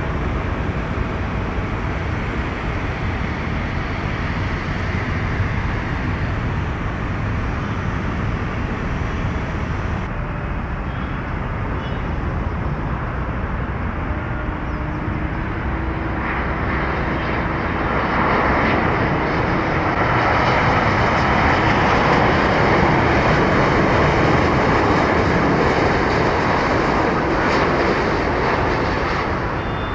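Jet airliner engines running, a steady rushing noise that swells a little past halfway, stays loudest for several seconds and then eases off near the end.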